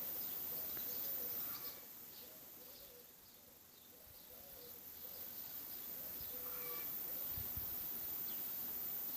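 Outdoor birdsong: a dove cooing in short low notes, with small birds chirping in brief high notes over a faint steady hiss.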